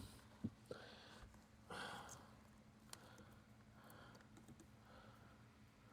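Near silence with a few faint clicks in the first second and a short rustle about two seconds in: hands handling the door latch cables and small plastic parts inside the door.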